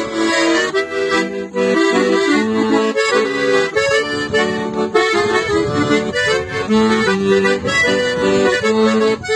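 Accordion playing a lively instrumental passage of a gaúcho song, with melody notes changing quickly over steady bass notes.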